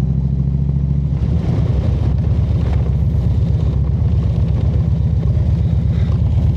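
Harley-Davidson V-twin motorcycle engine running while riding, its low note changing and turning rougher about a second in.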